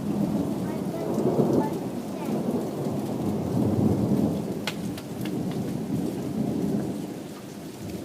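Heavy thunderstorm rain pouring down, a dense rushing sound that swells and eases every couple of seconds, with a few sharp taps of drops about halfway through.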